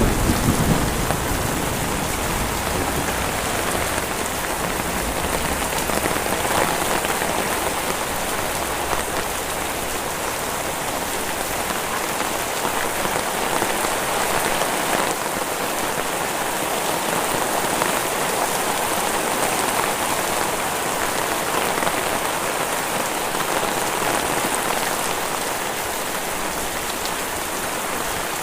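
Heavy rain falling steadily on surfaces, an even downpour with no letup. A low rumble of thunder dies away in the first second.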